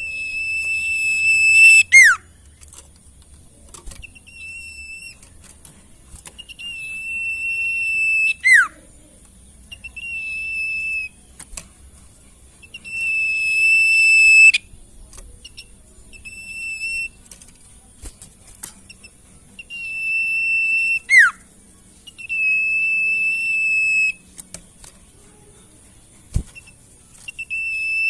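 Sirtu bird song played as a masteran: long, pure whistled notes held on one pitch, repeated with short pauses. Some notes swell louder, and a few end in a quick downward swoop.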